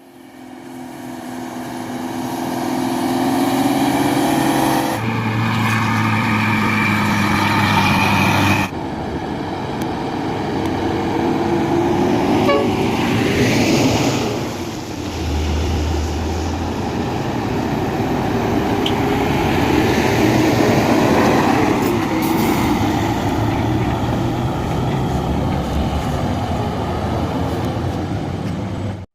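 Loaded dump trucks driving past with their diesel engines running, plus steady held tones over the engine noise for the first nine seconds. The sound changes abruptly about five and nine seconds in.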